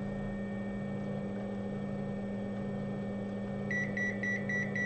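Steady electrical hum from workbench equipment with a faint pulsing undertone. Near the end, an electronic beeper gives a quick run of about six short, high beeps, roughly five a second.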